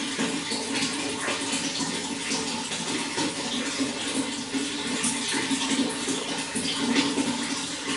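Running water flowing steadily, with many small splashes and gurgles throughout.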